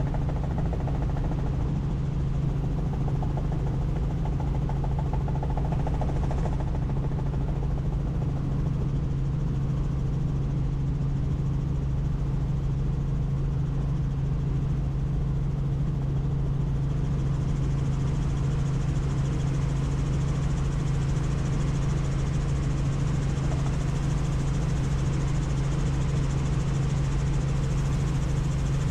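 Helicopter in flight heard from inside the cabin: a steady low rotor-and-turbine drone. A rushing hiss of wind grows louder about halfway through.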